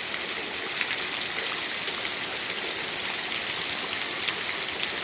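Rain falling steadily in the street, a constant hiss with scattered drops ticking close by.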